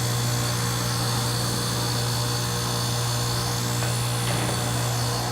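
2001 Amana heat pump's compressor running with a steady low hum during its defrost cycle.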